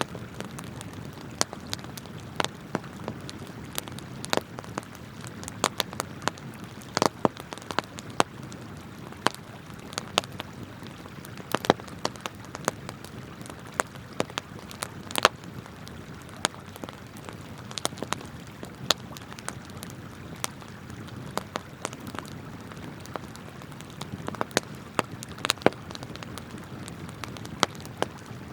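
Wood campfire crackling, with frequent irregular sharp pops, over the steady rush of flowing river water.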